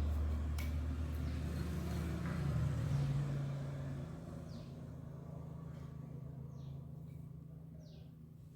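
Yamaha RayZR scooter engine running steadily; its note rises about three seconds in, then fades away.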